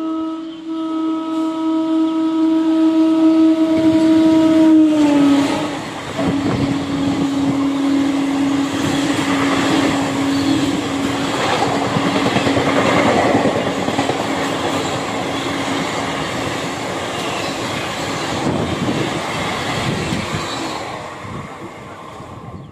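A locomotive's horn sounds one long blast as an express passenger train approaches at speed. Its pitch drops about five seconds in as the locomotive passes, and it keeps sounding until about sixteen seconds in. Under it, the rush and clatter of the passenger coaches running by fades near the end.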